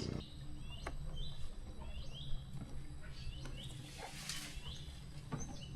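Forest birds calling: a series of short, curved chirps repeated throughout, over a low steady hum.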